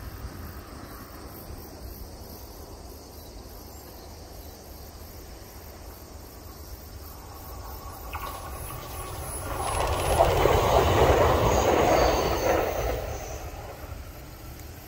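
JR East E129 series electric train passing: faint as it approaches, loudest a little over ten seconds in as it goes by, then fading away.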